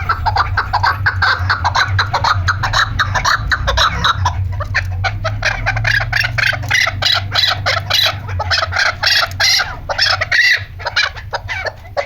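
Chukar partridge calling: a fast, continuous run of short repeated notes, many a second, over a low steady hum that weakens about halfway through.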